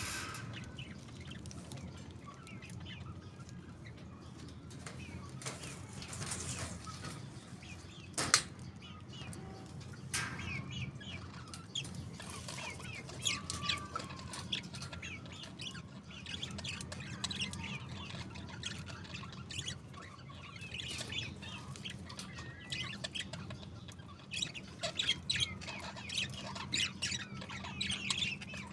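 Pet budgerigars chirping and twittering in short, high calls that grow busier in the second half, with wing flutters and a sharp knock about eight seconds in. A steady low hum runs underneath.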